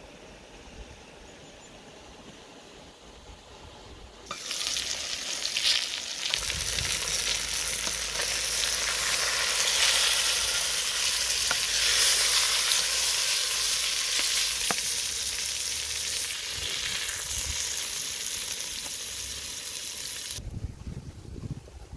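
Fish and wax gourd pieces sizzling as they fry in a metal pot, stirred with a wooden spatula. The sizzling starts suddenly about four seconds in and cuts off near the end.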